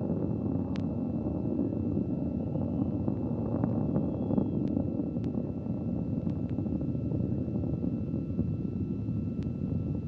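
Steady low rumble of the Soyuz 2.1a rocket's first-stage engines burning in flight, with scattered faint clicks and a faint steady high tone over it.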